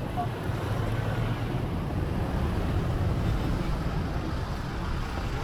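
Steady low outdoor rumble with no distinct events, the kind of mixed background made by wind on the microphone and distant traffic.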